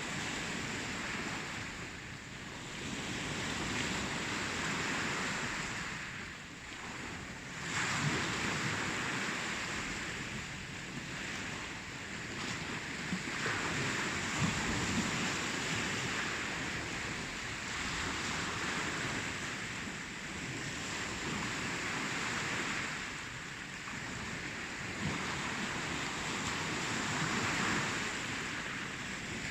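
Ocean waves breaking and washing on the shore, swelling and ebbing every few seconds, with a stronger surge about eight seconds in.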